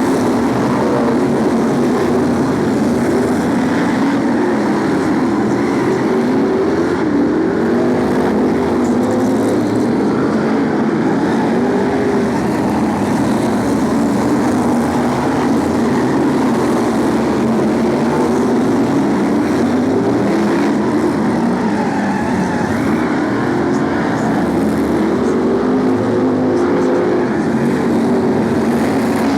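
A pack of BriSCA F1 stock cars' V8 engines racing, with several engine notes overlapping. Their pitch keeps rising and falling as the cars accelerate and lift off.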